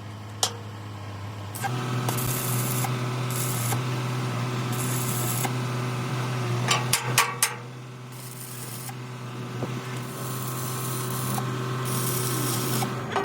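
Workshop steel-fabrication equipment: a steady machine hum with bursts of hissing that switch on and off several times, and a few sharp clicks about seven seconds in.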